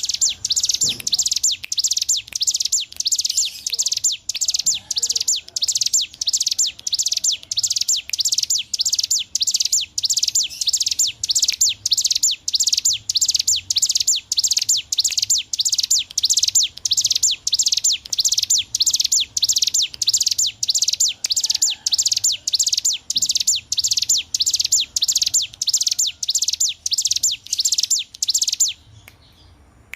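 Ciblek gunung (a mountain prinia) singing continuously in the rapid, drill-like 'ngebren' style: a loud, high, chattering run of short bursts at about two a second, breaking off briefly near the end.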